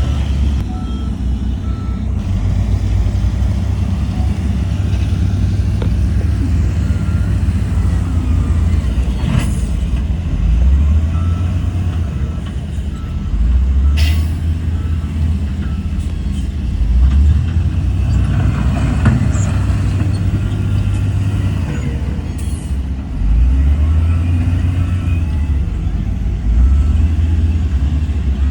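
Heavy diesel engine of a Shantui bulldozer working under load, a low rumble that swells and eases several times as it pushes. There are two sharp metallic clanks about a third and halfway through, and short repeated beeps near the start and around the middle.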